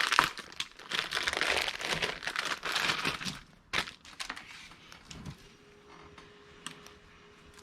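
Hands rummaging through rubbish: crinkling and rustling with sharp cracks and clicks for the first half, dying down after a last crack about four seconds in. A faint steady hum follows.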